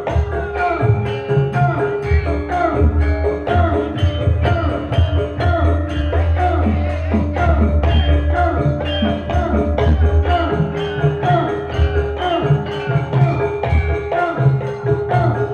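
Live Sragenan-style Javanese gamelan music: a busy run of struck, ringing metallophone notes over a steady low bass and rattling percussion, playing without a break.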